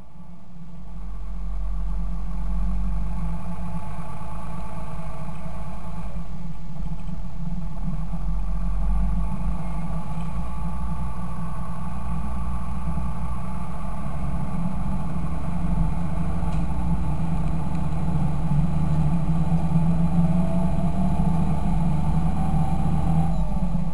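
Fendt 926 tractor's six-cylinder diesel engine running steadily, fading in over the first two seconds. A faint rising whine comes in near the end.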